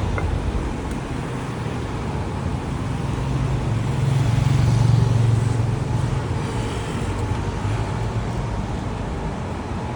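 Road traffic going by, a steady noise with one vehicle's rumble swelling to its loudest about five seconds in.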